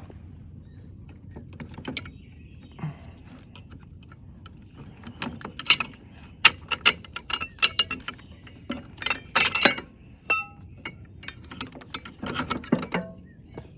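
Irregular metal clicks, clinks and knocks from a Snapper riding mower's transmission and clutch parts being handled and turned by hand. They are sparse at first and come thick from about five seconds in, with a brief metallic ring about ten seconds in.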